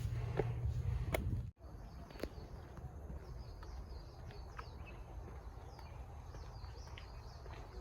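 Small birds chirping with short, high calls over a quiet outdoor background. At the start a low rumble with a few sharp clicks is heard, which cuts off abruptly about one and a half seconds in.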